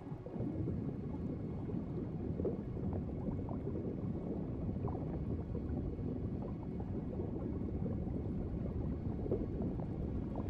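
Steady underwater bubbling and gurgling: a dense, low-pitched wash of water with many small bubble pops.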